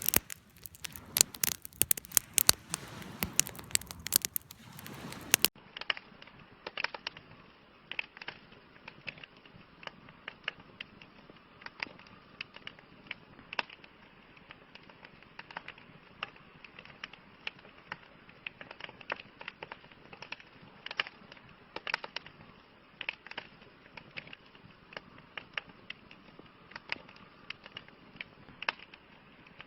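Wood campfire crackling and popping. For the first five seconds or so the crackling is dense and loud, then it switches abruptly to quieter, scattered pops.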